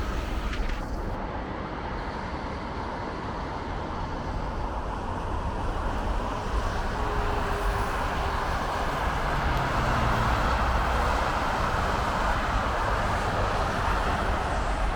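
Steady rumble and hiss of road traffic outdoors, building up louder from about nine seconds in, as a vehicle passes.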